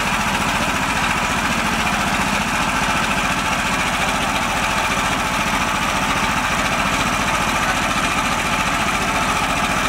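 Mini tractor engine running steadily at an even speed, with a rapid, regular beat of firing pulses.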